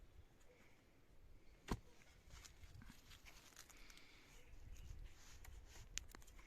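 Faint handling and rustling sounds with scattered light clicks, broken by one sharp knock about two seconds in and a smaller click near the end.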